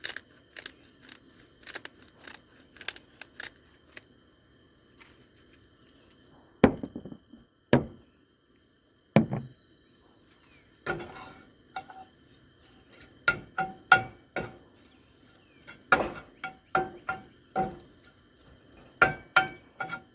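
A spatula scraping and knocking against a non-stick frying pan while scrambling eggs, in irregular strokes, some louder knocks ringing the pan briefly.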